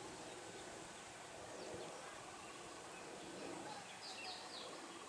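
Faint background ambience: a low murmur of distant voices, with a few short bird chirps about four seconds in.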